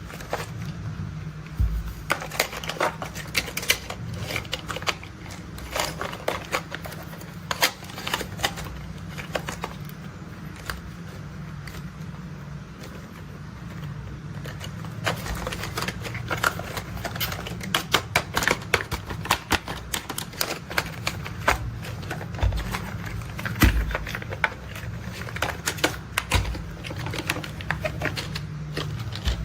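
Toy construction vehicles being handled, with irregular plastic clicks and clatters over a steady low hum.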